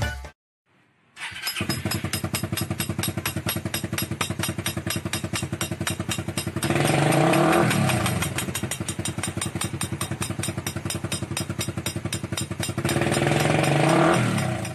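Car engine idling with a rapid, even putter, revved up and back down twice: once about six and a half seconds in and again near the end.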